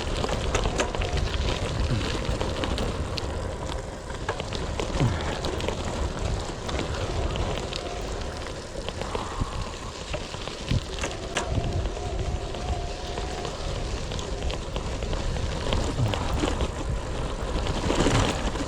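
Bicycle tyres crunching and rumbling over a gravel and rock track, with a steady crackle of small stones and rattles from the bike.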